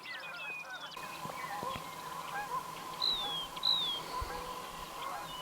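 A chorus of wild bird calls, many short notes overlapping, with two clear downward-sliding whistles about three seconds in.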